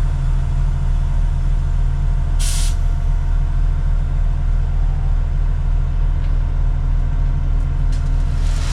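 Diesel engine of heavy earthmoving equipment running steadily with a deep hum, heard close to the machine. About two and a half seconds in, a short hiss of released air.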